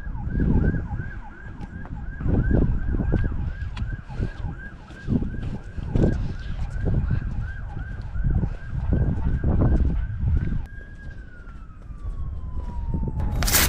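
Emergency vehicle siren on a fast yelp, about three sweeps a second, then holding one tone that slowly falls in pitch as it winds down. Wind gusts buffet the microphone throughout, and a sharp crack sounds just before the end.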